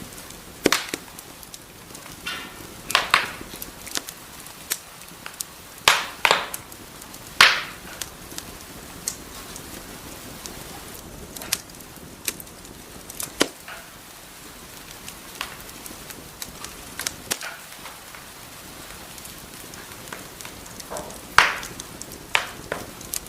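Wood fire in a fireplace crackling, with sharp pops coming at irregular intervals over a steady soft hiss. The loudest pops come a few seconds in and near the end.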